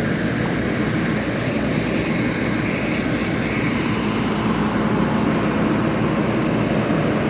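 Steady low rumble of idling school bus engines, unchanging throughout.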